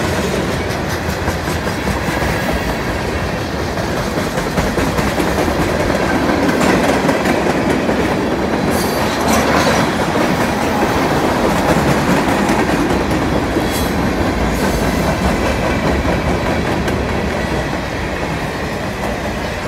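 Freight cars of a mixed freight train (hoppers and tank cars) rolling past at speed: a steady heavy rumble of steel wheels on rail, with clickety-clack as the wheels cross rail joints.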